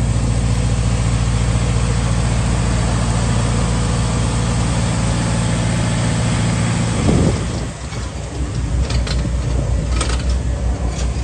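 Ice cream truck's engine idling with a steady low hum. About seven seconds in there is a brief surge, and the sound changes to a lower, uneven rumble with a few sharp clicks.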